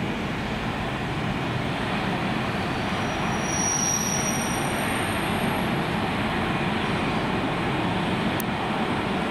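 A train running along the track, a steady rumble of wheels on rails, with a faint high squeal briefly about four seconds in.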